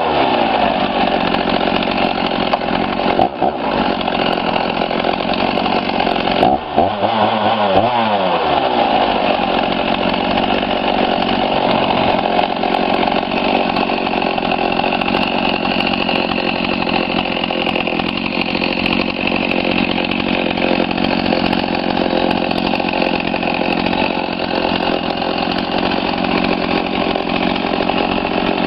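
Husqvarna 50 two-stroke chainsaw running at high revs. Its pitch dips briefly about three seconds in, and falls and climbs again around seven seconds in. After that it runs steadily.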